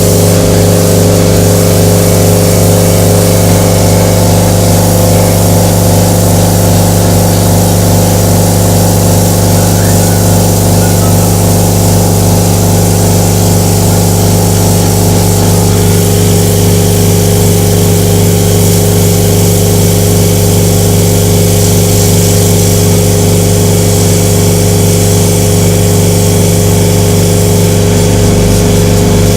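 Torrent 500 parts washer running steadily while cleaning an engine block: a loud, constant motor-and-pump hum with an even hiss of spray over it.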